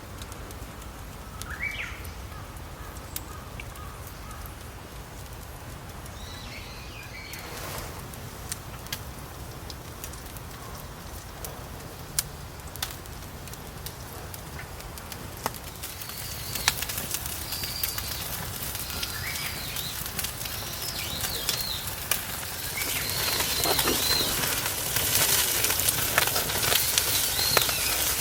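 Wood fire crackling in a fire pit under grilling meat, with sharp pops over a hiss that grows louder in the second half. Birds call now and then, most often near the end.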